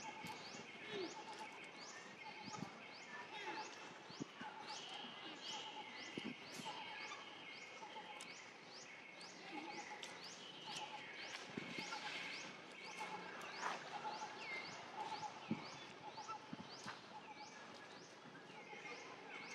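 Birds calling in the forest, one repeating a quick rising note about twice a second over other bird calls, with a few faint rustles.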